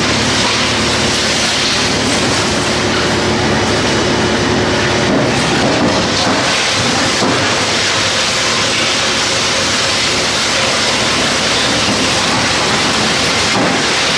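Rotex Master wood chipper running, a loud, steady, dense machine noise with a low hum that fades after the first few seconds.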